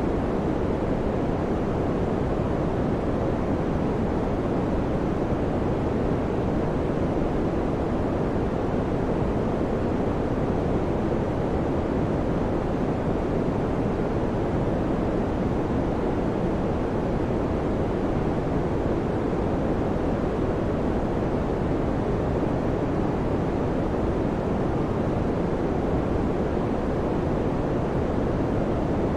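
Electric fan running: a steady, even rush of air, low and deep in tone, with no change in level.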